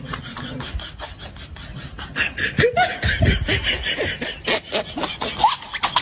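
People laughing in quick, rapid bursts, louder in the second half.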